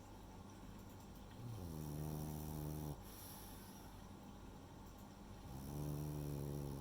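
French bulldog snoring: two long snores about four seconds apart, each sliding down in pitch at the start, then holding a steady pitch before cutting off sharply.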